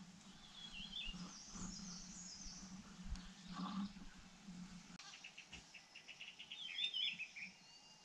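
Faint, high-pitched bird chirps and twitters: a warbled phrase about a second in, then a quick run of short notes, about six or seven a second, leading into another twittering phrase near the end.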